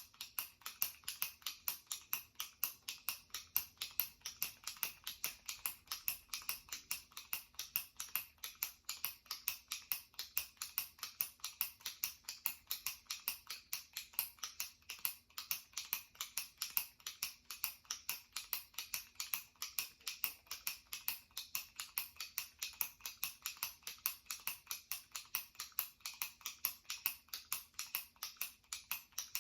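Jumbo retractable pen clicked repeatedly by pressing its top button: a steady, even run of sharp plastic clicks, several a second, as the push-button mechanism snaps in and out.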